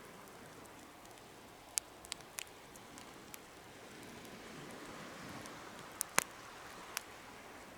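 Wood fire crackling in a homemade fire stand: a soft steady hiss of flames with sharp pops, a cluster about two seconds in and the loudest pair about six seconds in.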